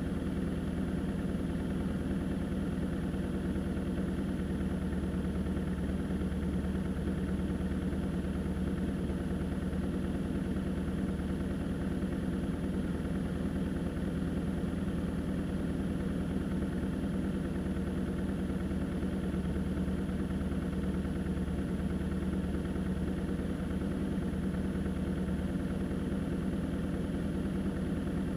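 A vehicle engine running steadily at an even pitch, with no revving or change throughout, plus a faint thin high whine.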